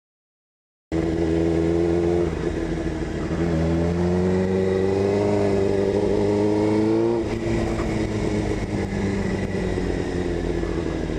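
Suzuki GSX-R600 inline-four engine accelerating hard. It cuts in about a second in, climbs steadily in pitch for several seconds, drops sharply at a gear change, and then pulls on at lower revs.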